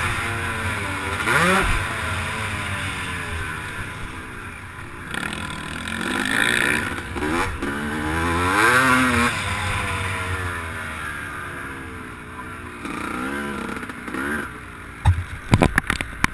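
Motocross bike's engine heard from the rider's camera, rising and falling in pitch with several blips of the throttle at moderate revs. A few sharp knocks sound near the end.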